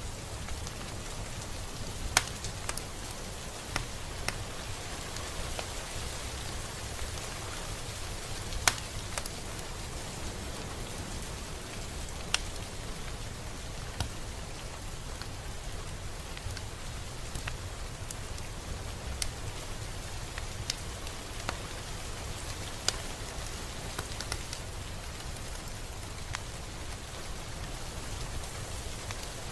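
Steady rain falling, with individual drops ticking sharply and irregularly on a hard surface every second or two, the loudest a little after 2 s and near 9 s in.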